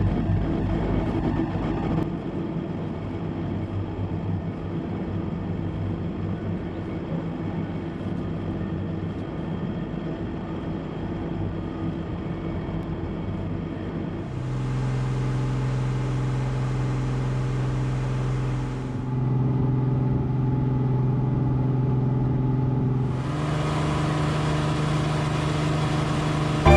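Rescue boat engine running steadily for about the first half, then soft ambient music with held chords takes over.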